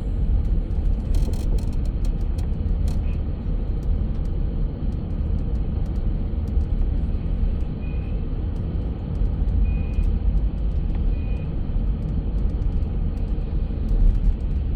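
Steady low rumble of a moving road vehicle, with a few faint clicks and three short, faint high tones around the middle.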